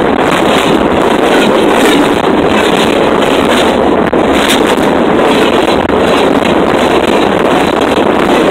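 Freight cars rolling directly over a microphone lying between the rails: steel wheels on the rails and the rush of air from the passing cars, a loud, continuous noise.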